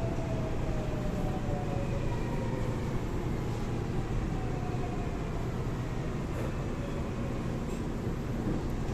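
Seoul Line 4 4000-series GTO-VVVF electric train (Daewoo Heavy Industries–Alstom) running, with a steady rumble of wheels on rail and the whine of its inverter and traction motors falling in pitch over the first few seconds.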